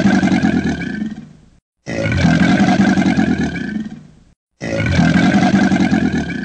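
A large animal's roar: the same call of about two and a half seconds plays three times, with short silences between.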